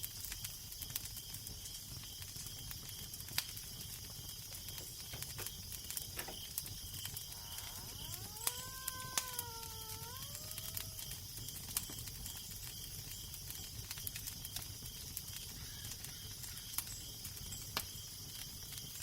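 Fire crackling, with sharp pops scattered throughout over a steady low wind rumble. About eight seconds in, a wavering pitched moan rises, dips and rises again for a couple of seconds.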